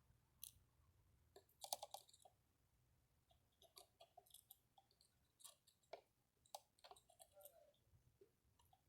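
Faint, scattered clicks and taps of small parts and tools being handled while an old Delco-Remy distributor is taken apart. The loudest cluster of clicks comes about two seconds in.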